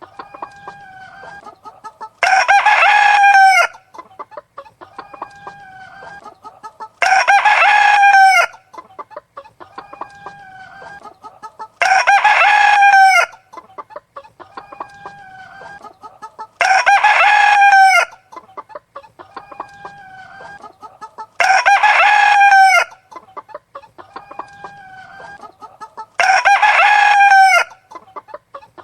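Rooster crowing six times, each crow about a second and a half long and spaced evenly about five seconds apart, with hens clucking quietly between the crows.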